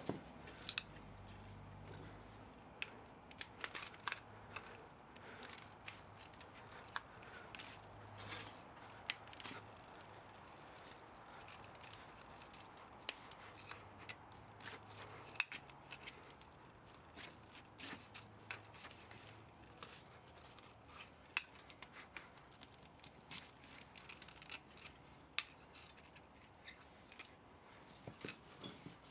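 Irregular small clicks and snips of hand tools working on the metal parts of an electric pump motor being taken apart for scrap copper and aluminium.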